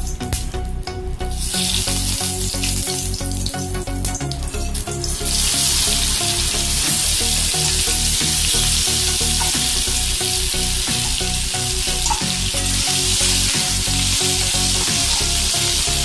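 Cubed potatoes dropped into hot mustard oil in a metal kadai, sizzling. The hiss rises sharply about five seconds in as the potatoes hit the oil, then holds steady and loud.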